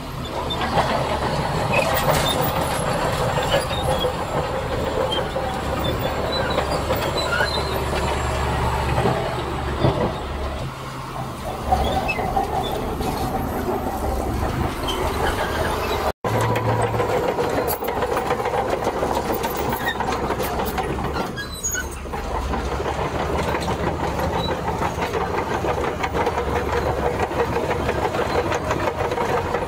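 Heavy diesel earthmoving machinery working in sand: a steady engine drone with clanking and rattling of steel parts, like tracks running. The sound breaks off for an instant about 16 seconds in, then carries on the same.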